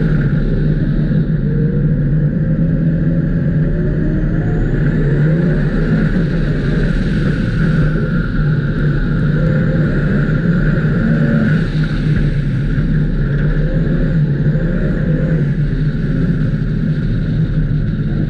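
Ice-racing car's engine running hard through corners on an ice track, its revs rising and falling continuously, heard from on board.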